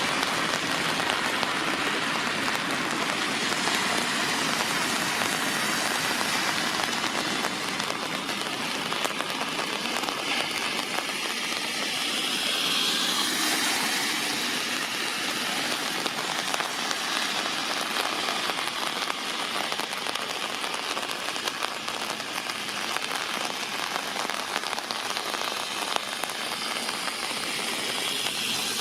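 Steady rain falling on puddles and wet asphalt, an even hiss, with a brief swell about halfway through.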